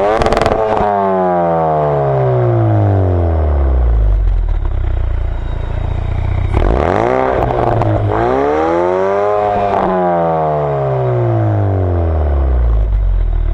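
Ford Focus RS Mk3's 2.3-litre turbocharged four-cylinder and its exhaust, revved hard for a launch-control start. The revs shoot up right at the start and fall away over a few seconds. They climb again about six seconds in, dip briefly, peak, then sink slowly.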